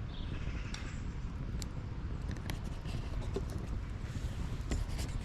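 Wood campfire crackling: scattered sharp pops and snaps at irregular times over a steady low rumble.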